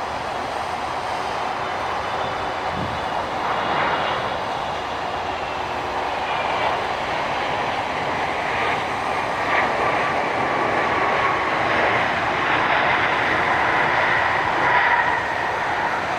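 Jet engine noise from a twin-engine Boeing 777 airliner on takeoff: a steady rushing noise with faint whining tones that slowly fall in pitch, growing a little louder over the last several seconds.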